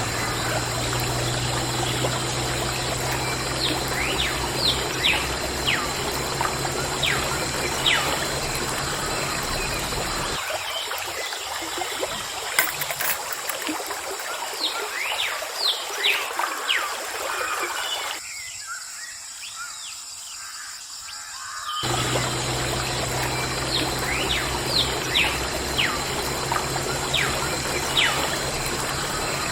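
Water trickling and splashing from a small toy water pump, with short plinking drips. A low, steady motor hum runs underneath, drops out from about ten seconds in and returns about twenty-two seconds in.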